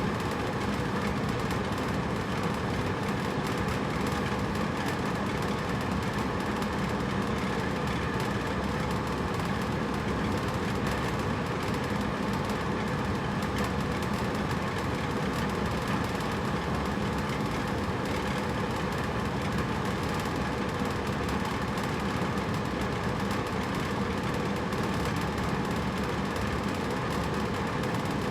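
Hotel room air conditioner running steadily: a constant whooshing hum of fan and compressor with a faint low drone, unchanging throughout.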